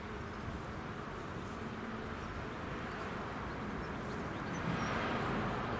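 Train running past on the rails, a steady rumble and clatter of wheels that swells slightly near the end.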